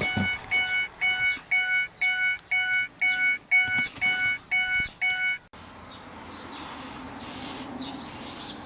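Vehicle warning chime beeping in an even repeat, about two and a half beeps a second, cutting off suddenly about five and a half seconds in, followed by a faint steady hiss.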